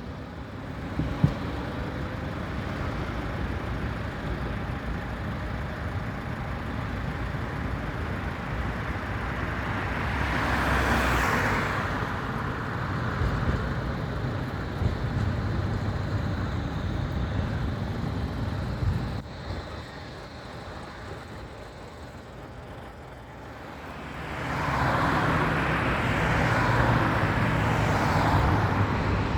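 City street traffic, with a vehicle passing close by about ten seconds in and another swelling up and holding near the end. A single sharp click sounds about a second in.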